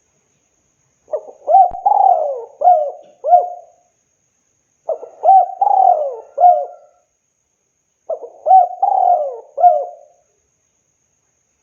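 Spotted dove cooing: three phrases, each a quick run of four or five arching coos, with about a second of silence between phrases.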